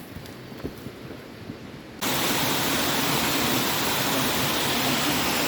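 A few faint knocks, then about two seconds in a loud, steady rush of water cuts in abruptly and holds.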